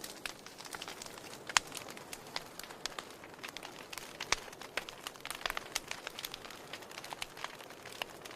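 Wood fire crackling in a fireplace: irregular small snaps and pops over a soft steady hiss, with two sharper pops about a second and a half in and about four seconds in.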